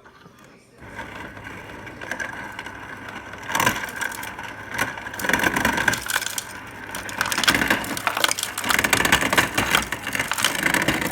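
Westinghouse WH7074SA French door fridge's through-the-door ice dispenser making crushed ice: the crusher grinds with a steady whine underneath while crushed ice clatters out. It starts about a second in, gets louder after a few seconds, and cuts off near the end.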